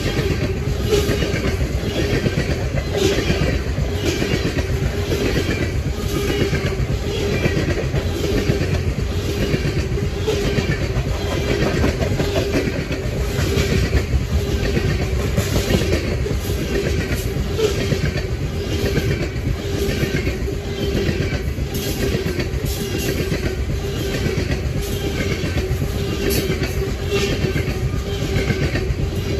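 CN freight train rolling past, its wheels clicking over rail joints in an uneven rhythm over a steady rumble and a steady mid-pitched tone.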